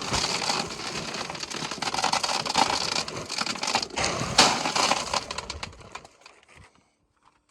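Loose volcanic gravel crunching and rattling as it is moved over a buried drainage pipe, a continuous gritty crackle that dies away about six seconds in.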